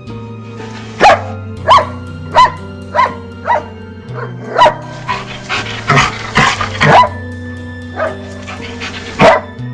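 A dog barking over and over, a sharp bark about every half second and more rapid and ragged for a couple of seconds in the middle, over background music with a steady bass line.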